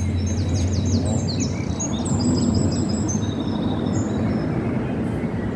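Small birds singing in quick high chirps and rapid downward-sweeping notes, over a steady low rumbling noise.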